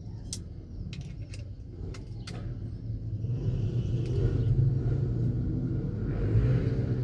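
Kia Rhino truck's engine running, a low rumble that grows louder from about three seconds in, with a few sharp clicks in the first couple of seconds.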